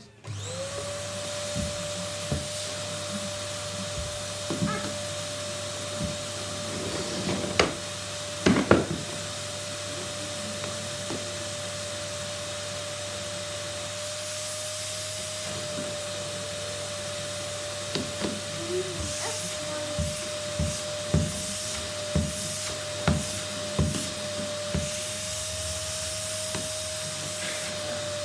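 Numatic Henry vacuum cleaner switched on, its motor rising to speed within about half a second and then running steadily at one pitch. Sharp knocks and bumps come over it, loudest about eight seconds in and again in a cluster later on.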